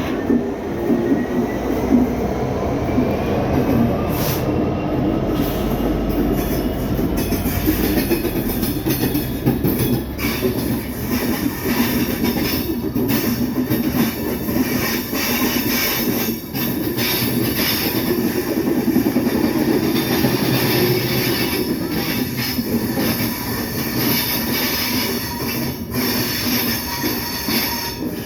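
Freight train passing through a station: a long rake of wagons rumbling and clattering continuously over the rails. From about a quarter of the way in, a high-pitched metallic wheel squeal joins the clatter and stays loud.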